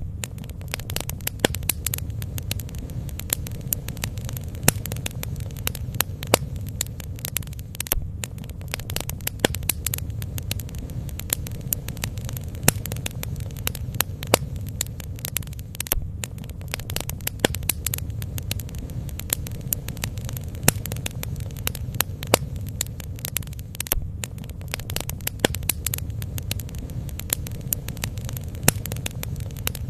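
Bonfire burning, its wood crackling and popping in quick irregular snaps over a low steady rumble.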